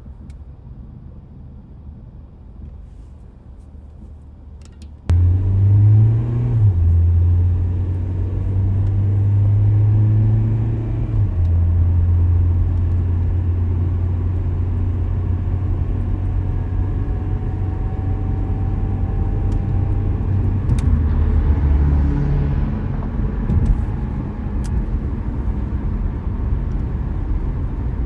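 Car on the road: a loud, steady low rumble of engine and tyres. It starts suddenly about five seconds in after a quieter stretch, and its low drone shifts pitch a little now and then.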